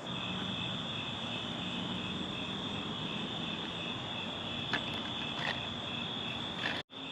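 Crickets chirping: a steady high trill with a fainter pulsing chirp just below it, plus a couple of faint clicks. The sound cuts out briefly near the end.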